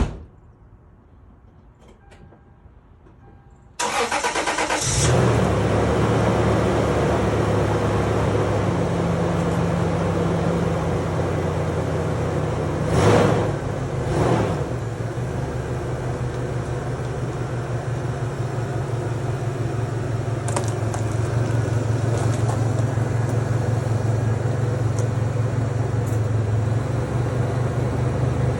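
A single sharp knock, then about four seconds in the starter of a 2003 Toyota Tacoma cranks for about a second and the engine catches on a totally cold start after two weeks unused. It settles into a steady cold idle, with two short revs about halfway through.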